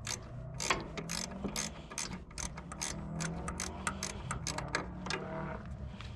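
Ratcheting wrench clicking in quick runs of strokes, loosening a 1/2-inch nut on a wire terminal stud.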